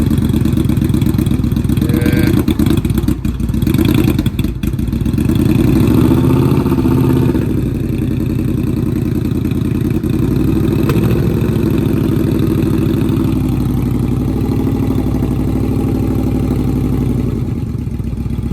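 Yamaha Royal Star Tour Deluxe's carbureted V4 engine, through dual aftermarket exhaust, running just after a cold start from three months of sitting. It stumbles briefly about three to four seconds in, revs up a little, then settles into a steady idle while the drained fuel system refills the carbs.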